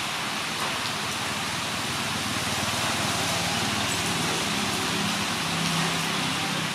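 Steady rain falling on tree foliage, an even hiss, with a low hum underneath from about three seconds in.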